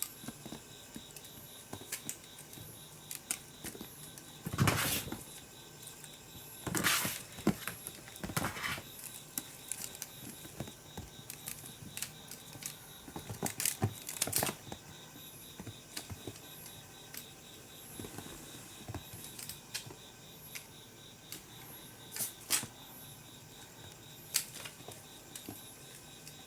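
Kittens playing with a dragonfly toy: scattered light taps and rustles, with a few louder scuffling bursts as they pounce and bat at it.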